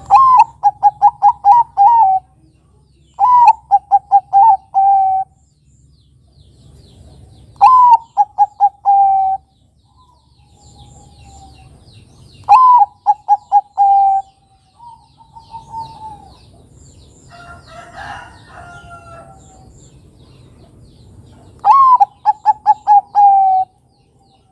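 Zebra dove (Bangkok-bred perkutut) cooing: five staccato phrases a few seconds apart, each a rising opening note followed by a quick run of short coos. Fainter calls from another bird come in between phrases about two-thirds of the way through.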